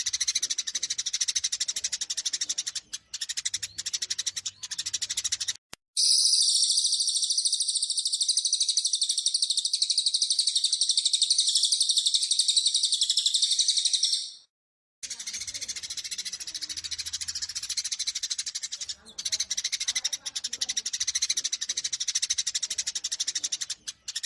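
Eurasian tree sparrows chattering in rapid, agitated fighting calls. Near the middle a louder, denser, unbroken high-pitched chatter takes over for about eight seconds. It stops abruptly, and after a brief gap the rapid chirping resumes.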